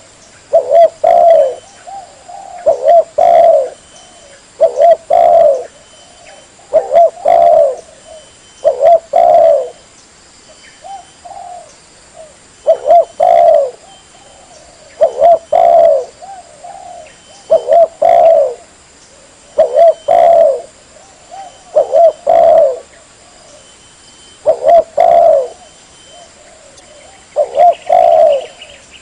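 Spotted dove (tekukur) cooing: short phrases of two or three coos, repeated about every two seconds, with a softer, quieter stretch about ten seconds in. This is a tekukur lure call, used to draw in wild doves.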